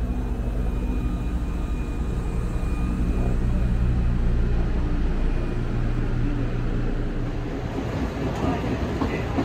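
Alpico Kōtsū Kamikōchi Line electric train with a steady hum and a faint high whine. About seven seconds in it changes to the rougher rumble of the train under way.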